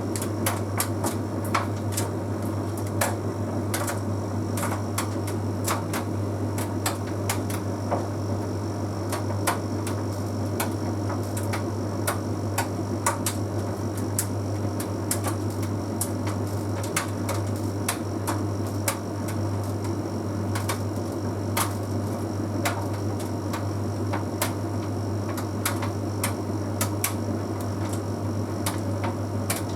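Bosch Series 6 heat pump tumble dryer running, with a steady low hum and a drum rumble. Irregular light clicks and taps, several a second, come from the load tumbling in the drum.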